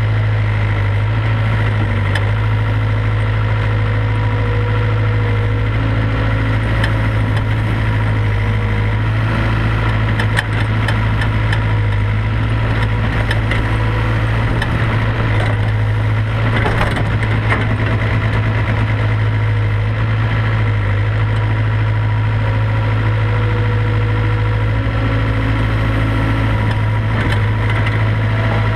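IHI IS 75B excavator's diesel engine running steadily under working throttle while digging and loading clay, with a few knocks and rattles about ten and sixteen seconds in.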